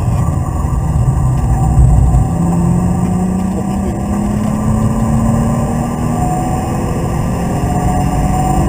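BMW Z3 2.8's straight-six engine pulling hard in one gear, its note rising slowly and steadily as the car accelerates, heard from inside the cabin over road noise.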